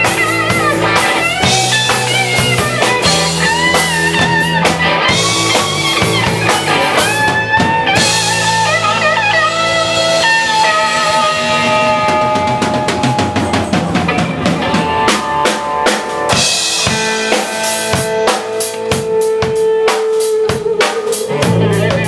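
Live band music: an electric guitar plays wavering, bent lead notes and long held notes over bass and drums. In the last few seconds the drums take the front with rapid snare and bass-drum hits.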